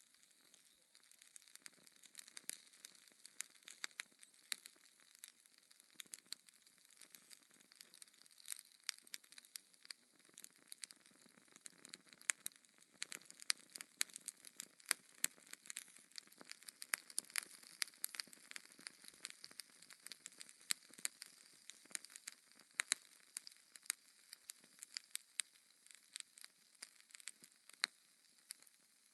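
Wood fire crackling: logs burning with many small irregular pops and snaps over a faint hiss.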